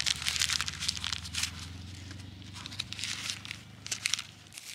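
Irregular crinkling, crackly rustle in several bouts, over a steady low hum that stops near the end.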